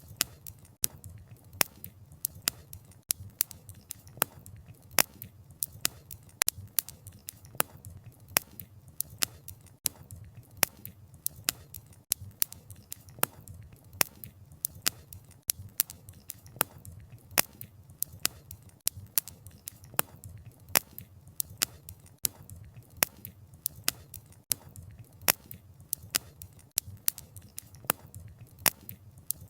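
Campfire burning, the wood crackling and popping in an irregular stream of sharp snaps, several a second, over a low rumble of the flames.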